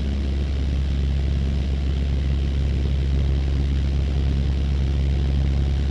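Cessna 152's four-cylinder Lycoming piston engine and propeller running steadily, heard from inside the cabin as an even low drone.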